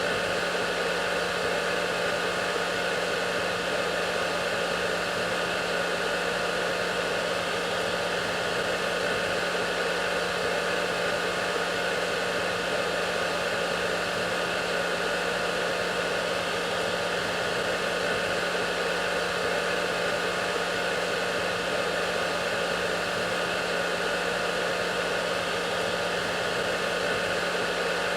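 Hair dryer running continuously: a steady, unchanging blowing hiss with a low motor hum underneath.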